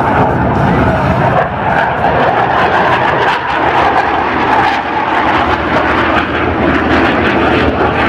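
Airplane engine noise from aircraft flying in an air show display, a loud steady roar.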